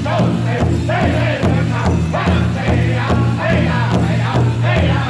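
Powwow drum group singing together over a large shared drum struck in a steady, even beat.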